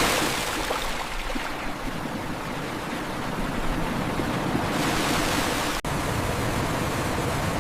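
Steady, even rush of water, with a momentary break about six seconds in.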